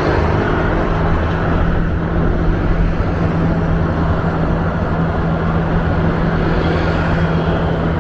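Small rental scooter engine running at a steady cruising speed, a constant low hum under wind and road noise on the rider's microphone.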